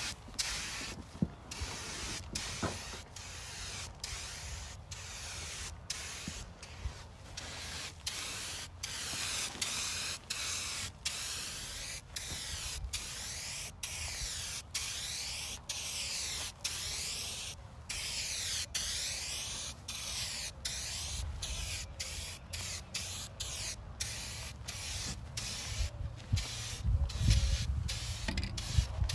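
Rust-Oleum Turbo Can aerosol spray paint hissing in repeated bursts, cut by many brief breaks between spray passes. A low rumble comes in near the end.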